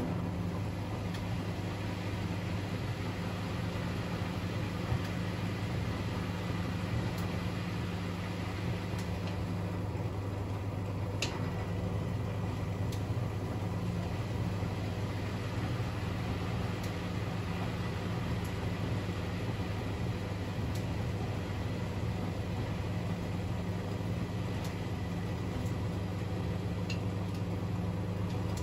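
Privileg 3001 S washing machine, a Zanussi build with a three-speed gear motor, running with a steady low hum and a few faint ticks.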